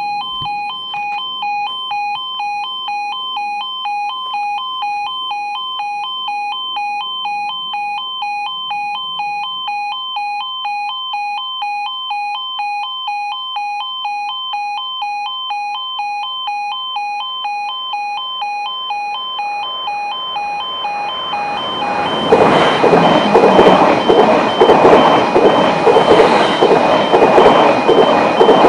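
Level crossing warning alarm sounding a rapidly pulsing two-tone electronic tone. About twenty seconds in, a train's approach builds up under it, and a few seconds later the train passes loudly over the crossing while the alarm keeps sounding.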